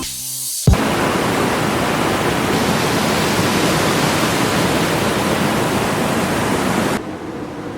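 Steady rushing roar of falling water, like a waterfall, which starts abruptly under a second in and cuts off about seven seconds in, leaving a fainter hiss.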